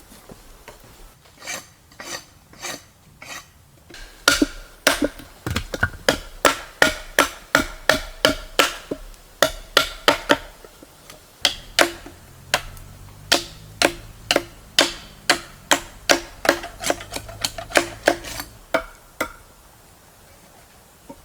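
Repeated sharp strikes of a hand tool, about two a second, each with a short ringing tone. A few lighter taps come first, then the strikes stop shortly before the end.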